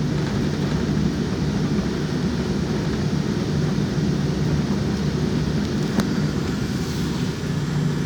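Steady low rumble of a jet airliner heard from inside the passenger cabin, engine and airflow noise at an even level, with a single faint click about six seconds in.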